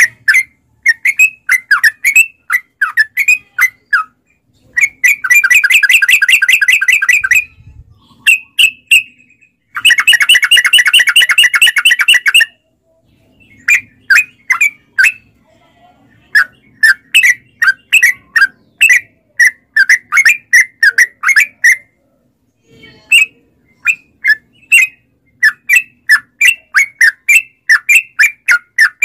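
Yellow-vented bulbul (trucuk) singing: runs of short, loud chirping notes with brief pauses. There are two long, fast rattling trills ('ropel'), one about five seconds in and another about ten seconds in, each lasting two to three seconds.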